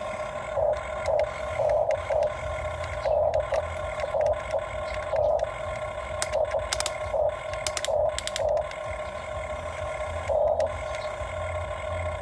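Excavator working in short stop-start bursts of motor whirring, about a dozen pulses with a low hum underneath and a few clicks and rattles.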